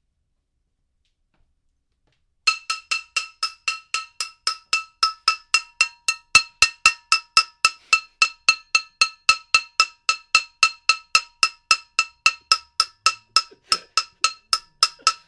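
Metal cooking pot struck rapidly and steadily, about four hits a second, each hit ringing with the same bright metallic tone; the banging starts about two and a half seconds in.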